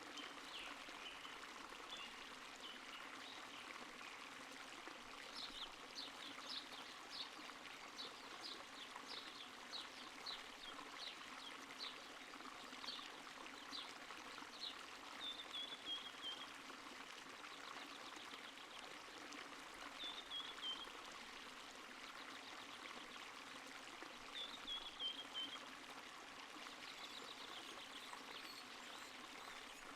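A small stream trickling and flowing steadily. A bird calls over it: a run of short high chirps, about one or two a second for several seconds, then three brief falling trills spaced a few seconds apart.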